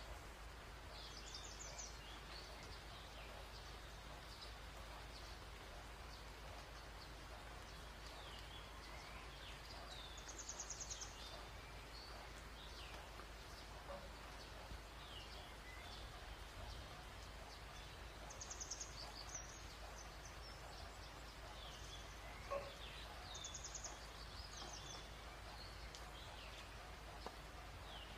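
Quiet ambience of birds singing: a fast, high trill recurs about every eight seconds, with scattered short chirps between, over a faint steady low hum.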